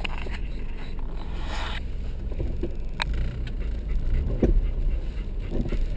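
Car idling at a standstill, heard from inside the cabin: a steady low rumble, with one sharp click about three seconds in.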